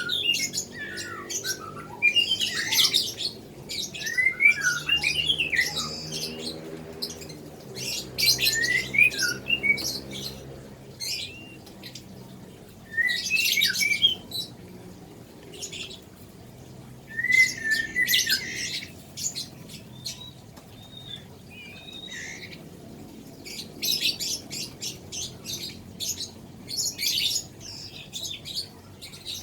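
White-rumped shama nestling giving harsh begging squawks in repeated bursts of a second or two, with short pauses between: the begging of a chick being hand-fed.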